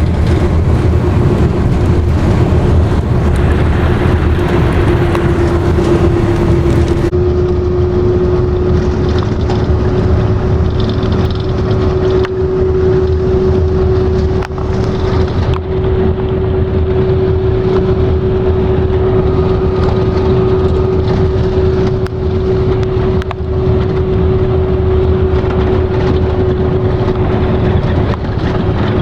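A vehicle driving on a highway: a steady drone of road and engine noise with a constant hum that rises a little in pitch about six seconds in.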